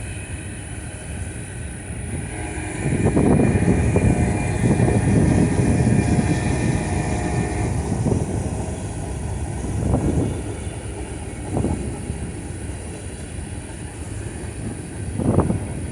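Empty grain freight train rolling past on the rails: a steady rumble of wheels on track. It grows louder for several seconds about three seconds in, with a faint whine on top, then carries on with a few separate knocks.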